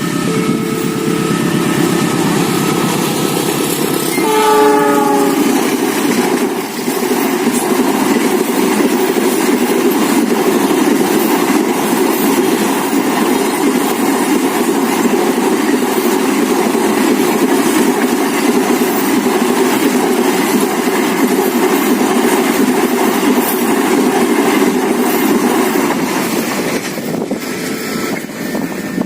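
A train passing a level crossing. Its horn is blowing and drops sharply in pitch about four seconds in as the locomotive goes by. Then the wheels rumble and clack over the rail joints for about twenty seconds before fading as the last cars pass.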